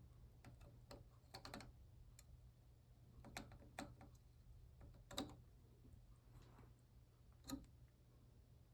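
Sharp, scattered clicks from desoldering a capacitor, with a spring-loaded solder sucker being cocked and fired and the board and tools handled. The loudest two clicks come about halfway through and near the end, over a faint steady low hum.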